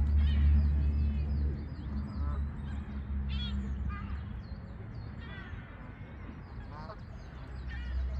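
Waterfowl calling: several runs of short, quickly repeated calls, over a low rumble that is loudest in the first two seconds.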